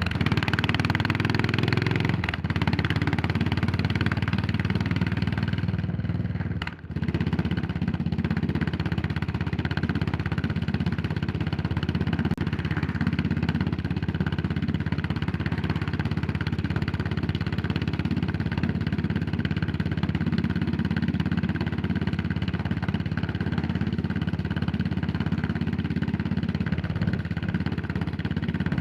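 Yamaha SR400's single-cylinder engine running under way, rising in pitch for the first two seconds, then cutting out briefly about seven seconds in before carrying on steadily.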